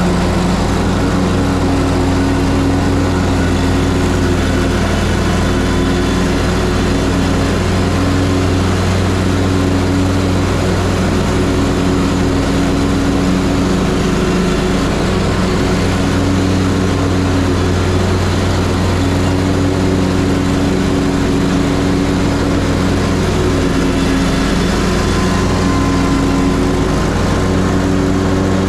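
Ferris Z3X zero-turn mower's 37 hp engine running steadily at mowing speed while the 61-inch deck cuts grass, its pitch wavering slightly with load.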